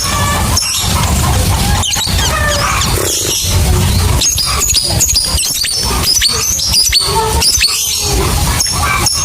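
Lovebirds chattering: a dense, continuous stream of rapid, high-pitched chirps and squeaky calls, the long chattering song used to lure other lovebirds into singing.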